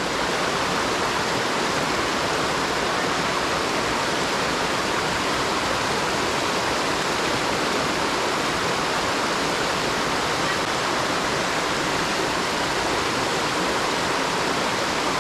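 Waterfall: water falling and splashing into a pool, a steady, even rushing hiss that doesn't change.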